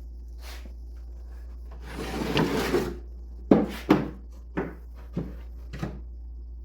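A hand tool working wood: a scraping stroke lasting about a second, then a run of five short, sharp strokes that grow fainter.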